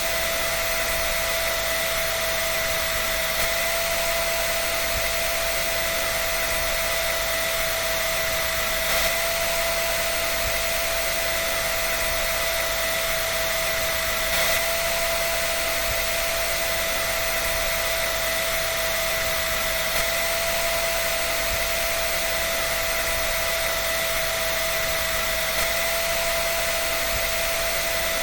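Hair dryer running continuously: a steady blowing hiss with a constant motor whine, unchanging throughout.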